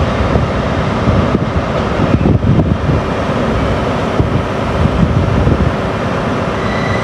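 A train running through the station, a loud steady rumble with a faint constant hum and scattered wheel clicks, with wind on the microphone.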